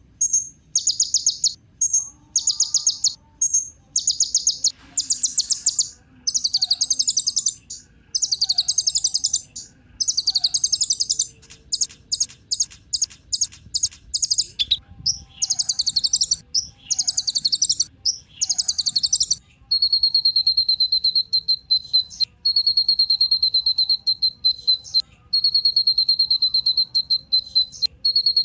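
A kolibri ninja sunbird singing: high, rapid, buzzy chattering phrases about a second long with short gaps, and a run of sharp separate notes partway through. About two-thirds in, the song gives way to a continuous, even, high trill at one pitch, like a cricket's.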